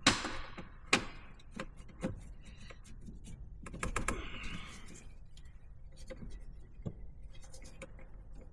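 Scattered clicks and knocks of hand tools and intake parts being handled and set down, loudest at the start and about a second in, with a short rustle around four seconds in.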